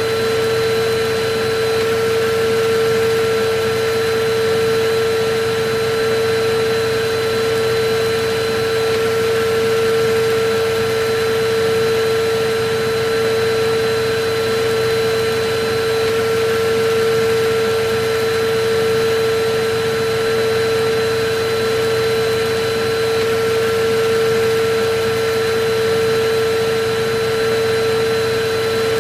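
Electric vacuum cleaner running steadily: a constant motor whine over a rush of air, its loudness wavering gently every couple of seconds.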